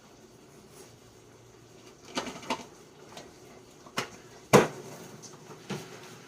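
Kitchen clatter: about five short, sharp knocks of utensils and dishes, the loudest about four and a half seconds in.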